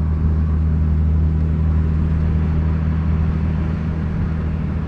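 Turbocharged Ecotec V6 engine of a Holden Commodore running steadily at low revs, a deep even drone.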